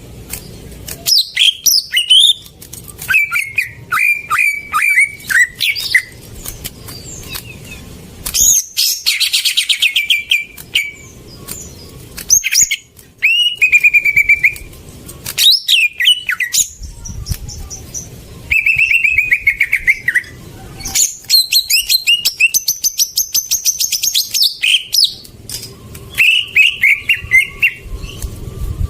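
Cucak ijo (green leafbird) singing a long, varied song: runs of repeated whistled notes, fast high trills and short downward sweeps, phrase after phrase with brief pauses. It is a lure recording meant to provoke a captive cucak ijo that has stopped singing.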